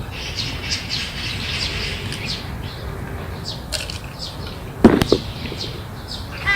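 Garden birds chirping, many short high notes repeating. About five seconds in comes a sudden loud double thump or flap, and a harsh bird call starts right at the end.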